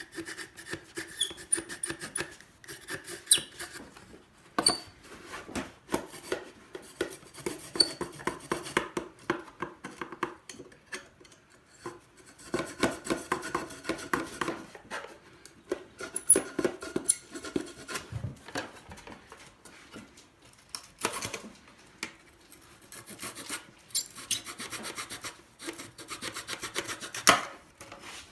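A small handsaw cutting through balsa wood, in runs of quick back-and-forth strokes with short pauses between them.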